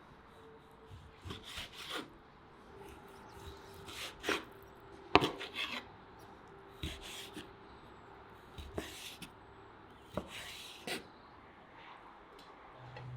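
Kitchen utensil knocks and scrapes of food preparation: irregular strokes a second or two apart, the loudest about five seconds in.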